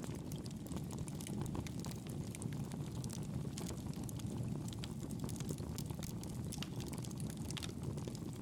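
Campfire burning, with frequent small crackles and pops from the wood over a steady low rushing sound.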